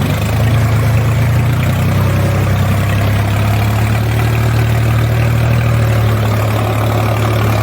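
HMT tractor's diesel engine running steadily at a low, even speed.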